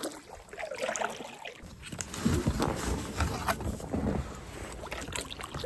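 Paddling an inflatable kayak: the paddle dipping and splashing, with irregular knocks and rubbing against the boat. Heavier strokes start about two seconds in.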